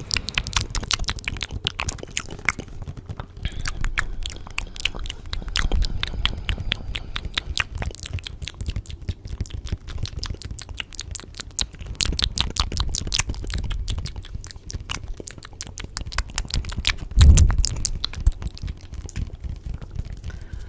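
Layered ASMR trigger sounds: a dense run of rapid, crisp clicks and crackles, with one low thud about 17 seconds in.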